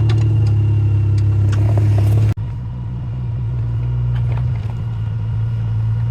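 Small excavator's engine running steadily with a deep hum and scattered light clicks and clatter. About two seconds in, the sound breaks off abruptly and resumes at once a little quieter.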